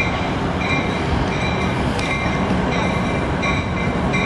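Commuter passenger train rolling by, a steady rumble with a faint high squeal from the wheels that comes and goes several times.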